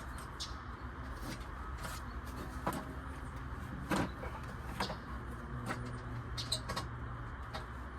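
Scattered clicks and light knocks of hand tools working in a car's engine bay, over a steady low hum; the loudest knock comes about halfway through.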